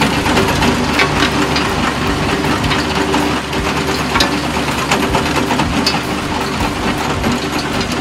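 Toy crane running steadily as it lowers its hook on the cable, a continuous mechanical whir with a low pulsing beat.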